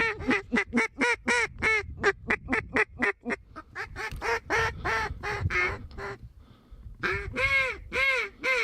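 Duck quacks: a quick run of short quacks, about four a second, then a pause and a few slower, louder quacks near the end.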